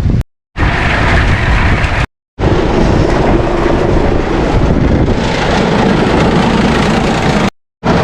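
Farm tractor engine running steadily while scraping and pushing feed. The sound breaks off in three short gaps of silence: near the start, about two seconds in, and near the end.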